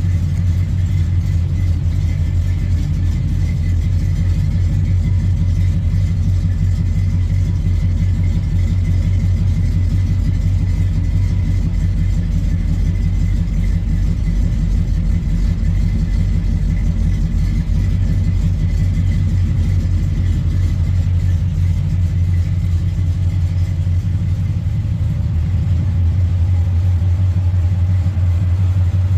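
1971 Chevrolet C20 pickup's engine idling steadily with an even, low rumble.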